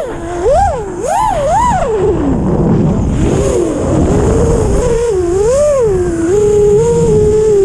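Six-inch FPV racing quadcopter's Hyperlite 2408.5 brushless motors whining in flight. The pitch swoops up and down with quick throttle punches, drops low about two seconds in, then settles into a steadier whine with a couple of swells.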